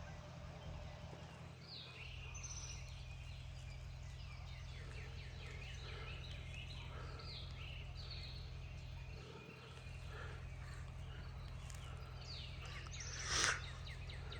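Several songbirds calling and singing at once, short chirps and whistled phrases overlapping throughout, over a steady low hum. A louder, short sudden sound stands out near the end.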